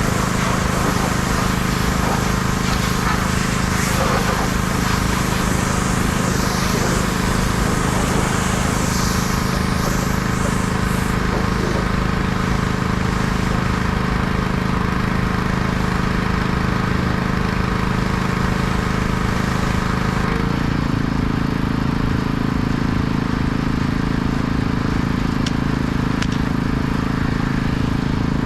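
Engine-driven pressure washer running steadily, its engine note stepping up in pitch about two-thirds of the way through.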